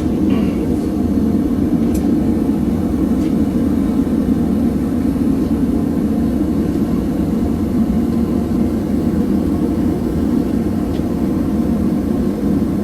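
Propane gas forge burner running with a steady roar, with a few faint ticks.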